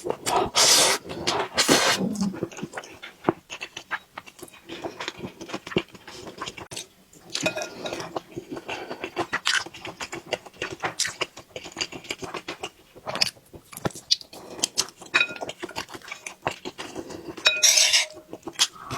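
Someone eating from a bowl: irregular clinks and scrapes of a spoon against the dish, with chewing and mouth sounds between.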